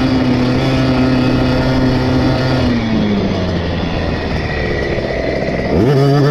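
KTM 50 SX's small single-cylinder two-stroke engine held at steady revs, then the revs drop off for about three seconds before climbing sharply again near the end as the throttle is opened.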